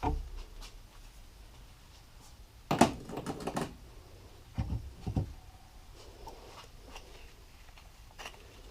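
Clicks and knocks of engine parts being picked up and set down on a workbench: a sharp knock with a short rattle about three seconds in, two duller thumps around five seconds, and a faint click near the end.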